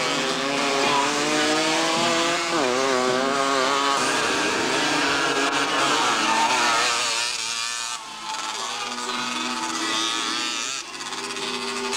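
Motocross motorcycle engines revving as the bikes race, their pitch rising and falling with the throttle. The sound is loud for the first seven seconds or so, then drops back and stays quieter.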